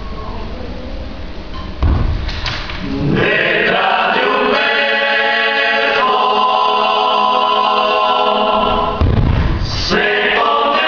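Choir singing long-held chords. A low thump comes about two seconds in and another near the end.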